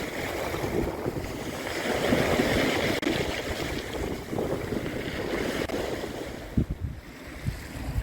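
Sea waves washing onto the beach, the surf swelling and easing, with wind rumbling on the microphone in gusts.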